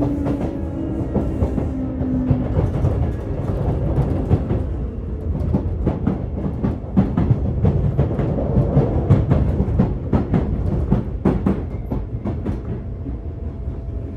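Sotetsu 8000 series electric train running, heard inside a motor car as it slows: a low rumble, and a motor tone that falls in pitch and fades in the first few seconds. From about five seconds in, the wheels clatter over rail joints or points in a run of sharp clicks.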